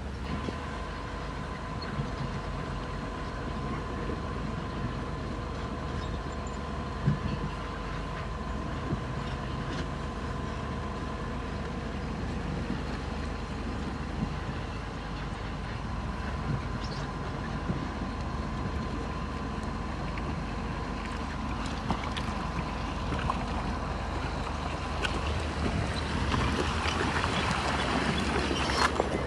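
Bulldozer's diesel engine running steadily, with a thin steady whine over the rumble and an occasional knock. Near the end the clatter grows louder and busier.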